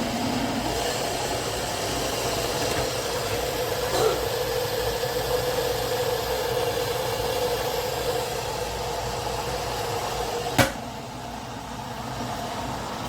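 Electric kettle at a rolling boil with a steady rush and hum. A sharp click about two-thirds of the way through marks the automatic shut-off, after which the hum stops and a softer rush carries on.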